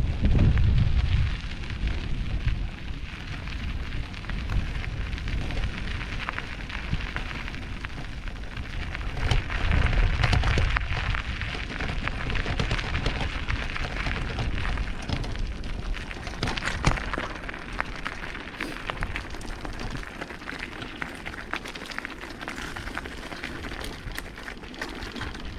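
Mountain bike rolling along a dirt and rock trail, its tyres crackling over loose grit and small stones while the bike rattles. A low rumble swells at the start and again about ten seconds in.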